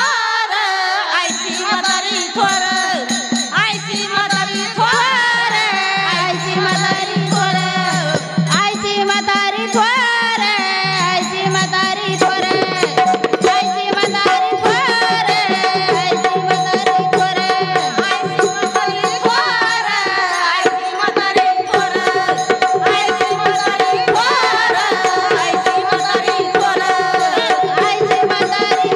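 Bhajan music with tabla and jingling percussion keeping a steady beat, and a melody that slides up and down over a held note.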